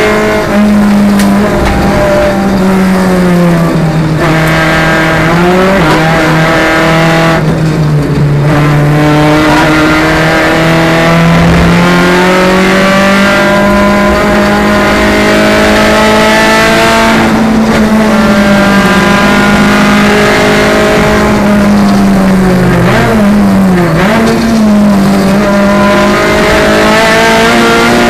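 Renault Clio Sport race car's four-cylinder engine heard from inside the cabin, running hard under racing load. Its pitch climbs steadily through each gear and drops sharply at gear changes and braking, several times over the stretch.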